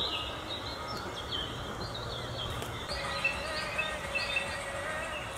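Outdoor ambience with birds chirping: many short, repeated chirps, with a faint steady tone joining about three seconds in.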